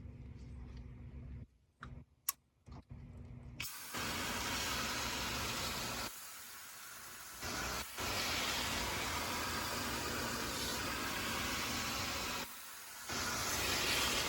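A few light clicks over a low hum, then a loud, steady rushing hiss starts suddenly about three and a half seconds in. It drops away twice, for over a second near the middle and briefly near the end, before coming back.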